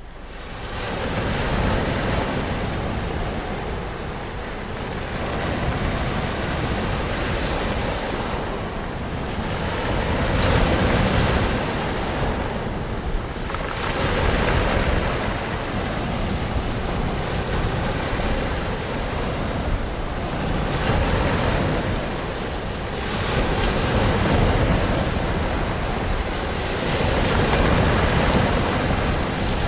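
Ocean waves breaking and washing in, a continuous rushing surf that swells and eases every few seconds.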